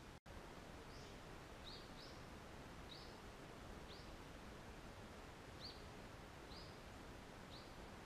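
A bird repeating a short, high call about once a second over a faint, steady hiss, with a brief dropout just after the start.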